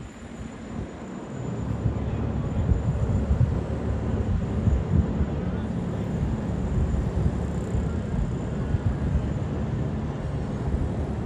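Low, steady rumble of a large motor yacht's engines, rising about a second in, with wind buffeting the microphone.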